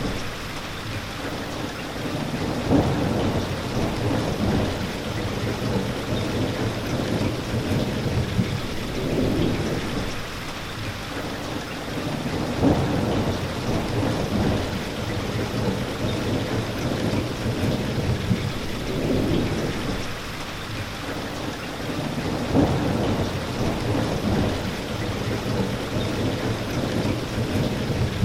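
Steady, continuous rain falling, with deeper swells in the low end returning every few seconds.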